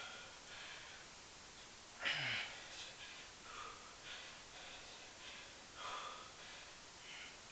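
A man breathing hard through a long set of pistol squats, with short puffs of breath in quick succession and a louder, voiced exhale about two seconds in.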